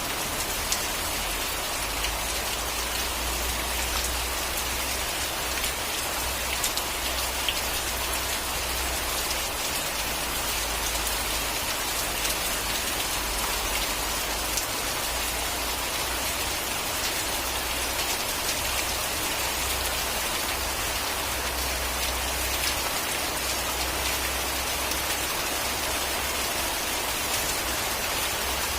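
Steady rain falling on a surface, an even hiss with scattered sharp drop ticks and a low rumble underneath.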